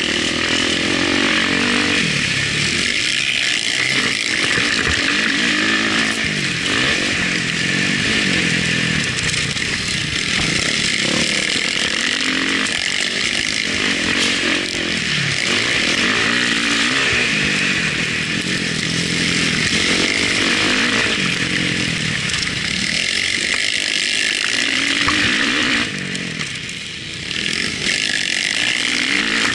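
Motocross bike engine heard from an onboard camera, revving up and falling off again and again as the throttle is worked around the track, over a steady high hiss. Near the end the engine briefly drops away and then picks up again.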